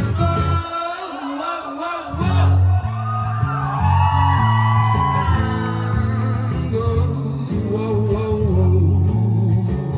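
Acoustic guitar with singing, the voice gliding in pitch over the guitar's repeating accompaniment.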